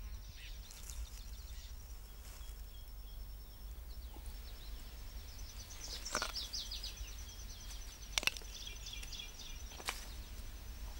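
Faint forest ambience: small birds chirping in short descending calls over a steady high-pitched pulsing trill. A few sharp snaps come a couple of seconds apart, the loudest about eight seconds in.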